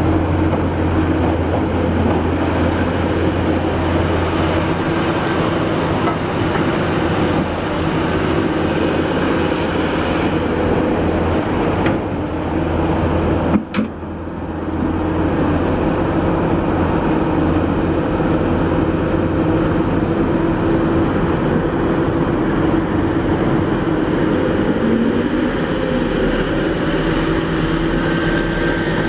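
Kobelco SK350 excavator's diesel engine running steadily under working load, with a low hum and steady engine tones. A sharp click and brief dropout about halfway through.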